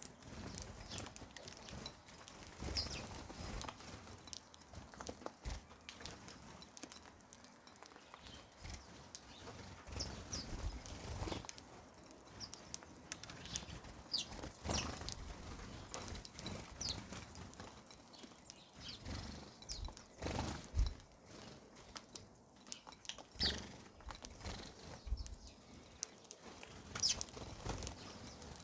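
Birds feeding, with short sharp high chirps every few seconds amid irregular tapping and scuffling.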